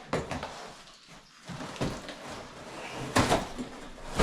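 Knocks and clatter of shower-unit parts being handled and set down: a few sharp knocks just after the start and a louder cluster about three seconds in.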